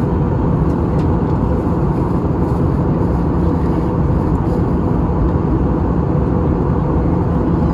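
Airbus A320 in flight: a steady, loud rush of airflow and engine noise, with faint steady hums underneath.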